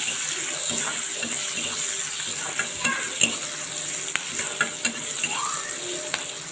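Sliced onions and dried red chillies sizzling in hot oil in an iron kadai, stirred with a spatula that scrapes and clicks against the pan now and then, most sharply about three seconds in.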